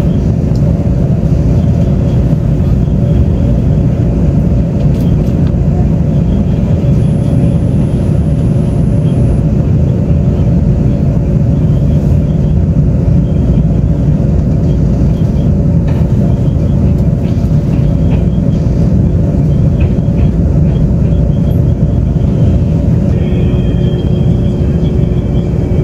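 Taiwan Railways Tze-Chiang express train running at speed, heard from inside the passenger car: a steady, loud rumble with a constant low hum and occasional faint clicks. A higher steady whine joins near the end.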